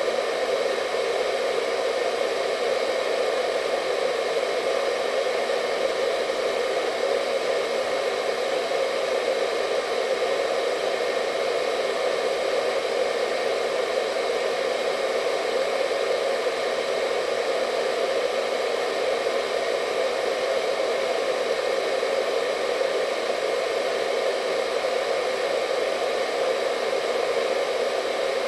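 Hair dryer running steadily: an even rush of blown air with a faint motor whine, unchanging throughout.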